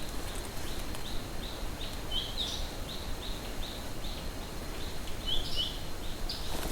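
A bird calling: a string of short high notes, about two or three a second, with a few louder, sharper notes mixed in, over a faint steady hiss.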